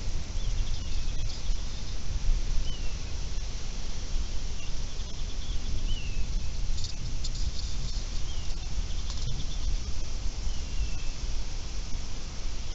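A bird repeats a short slurred chirp about six times at irregular intervals over a steady low rumble of wind noise.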